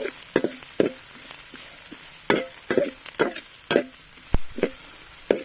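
Sliced onions frying in hot coconut oil with a steady sizzle, while a spatula stirs them, knocking and scraping against the pan about a dozen times at an uneven pace. One knock, about four seconds in, lands with a deeper thump.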